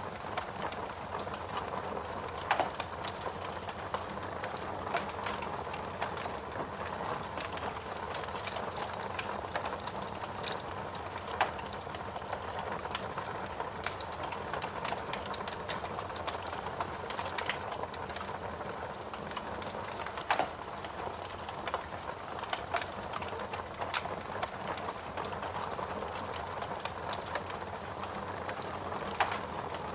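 Log fire burning in a fireplace: a steady crackling hiss with frequent small irregular snaps and a few louder pops spread through.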